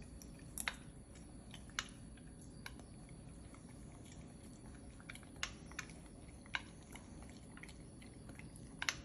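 A puppy chewing food while being hand-fed, with irregular sharp clicks about once a second or less, roughly seven in all.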